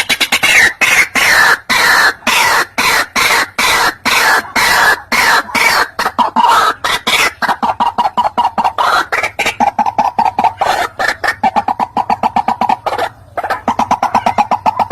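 White-breasted waterhen calling: a fast, loud run of short repeated harsh notes, several a second, with a brief break near the end.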